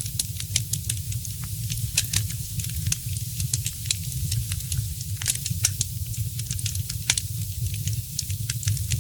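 Fireplace fire crackling, with frequent sharp, irregular pops over a steady low rumble and hiss.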